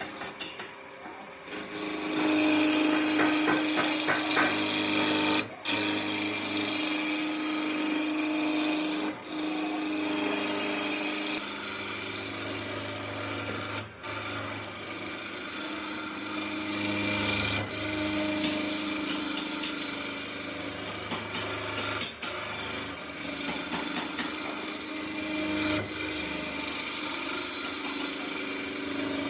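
Power tool running steadily against wood, a continuous motor hum with brief drop-outs several times.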